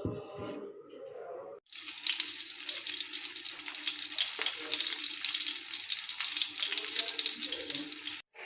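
Kitchen tap running steadily into a sink for about six seconds, cutting in and out abruptly, after a few light knocks and clinks.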